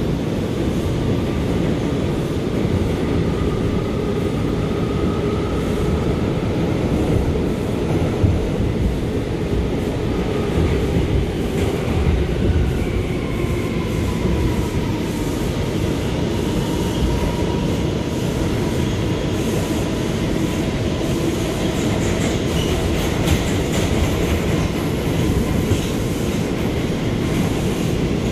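R179 subway car running at speed, heard from inside: continuous wheel-on-rail noise with faint whining tones that slowly drift in pitch and a few sharp clicks over rail joints.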